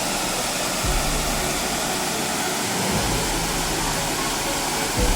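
Steady rush of a mountain stream's water, with brief low rumbles about a second in, around three seconds in and near the end.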